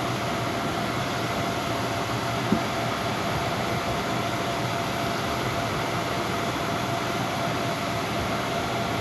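Steady machine noise, an even rushing sound with a faint constant hum in it, and one short click about two and a half seconds in.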